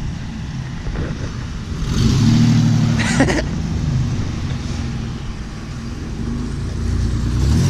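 Car engine running, growing louder about two seconds in and again near the end, with a short sharp noise about three seconds in.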